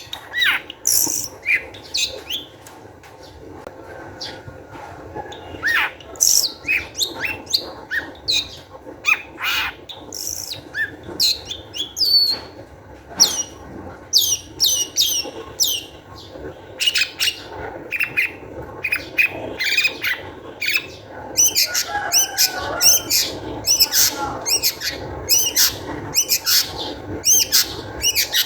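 Long-tailed shrike (cendet) in excited, agitated song: a fast run of sharp, high chirps and downward-sweeping whistled notes. The notes come thicker and faster in the second half, mixed with some lower, harsher chattering notes.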